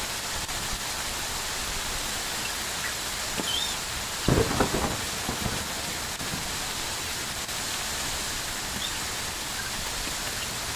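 Steady downpour of rain hissing evenly, with a brief cluster of thumps about four seconds in.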